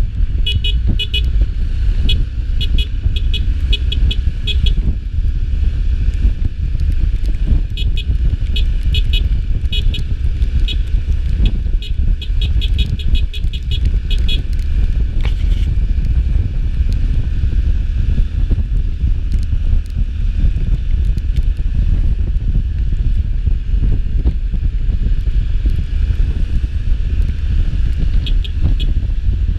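Street traffic: a steady low rumble of passing vehicles and motorcycles. Stretches of rapid, short high-pitched beeps run through the first half and again near the end.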